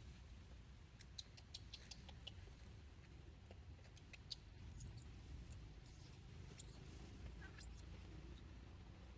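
A young monkey giving faint, very high-pitched squeaks: a handful of short chirps that rise and fall, most of them in the middle, after a quick run of small clicks near the start.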